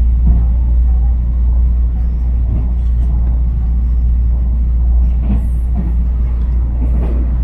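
Steady low rumble of a Tze-Chiang 3000 series electric express train running along the line, heard from inside the passenger car.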